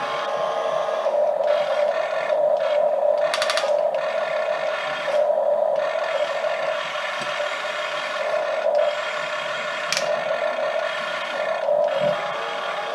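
Small electric motors and plastic gearboxes of radio-controlled toy excavators whining steadily as they work, rising and falling with the controls. A short burst of rapid gear clicks comes about three and a half seconds in.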